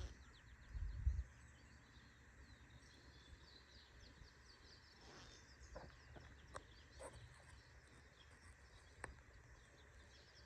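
Faint birds chirping over quiet rural outdoor ambience, with a brief low rumble about a second in and a few soft clicks later.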